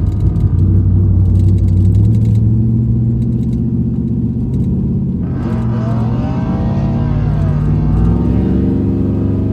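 A vehicle engine runs loud and held at high revs, its pitch wavering slightly. From about five seconds in, a higher engine note swells up and falls back over a few seconds.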